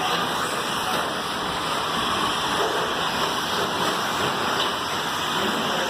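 Electric 1/10-scale short course RC trucks racing on a dirt track: a steady, even hiss of brushless motors and tyres on dirt.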